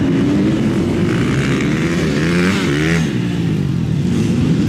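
Several racing engines revving hard together, their pitches rising and falling as the vehicles accelerate and shift.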